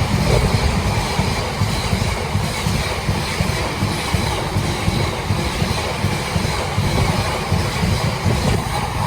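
Freight train of biomass hopper wagons rolling past at speed, a steady heavy rolling noise of wheels on rail.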